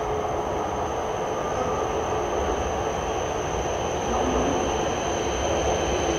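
E6 series shinkansen rolling slowly into the station: a steady low rumble of wheels and running gear, with a thin high steady tone over it.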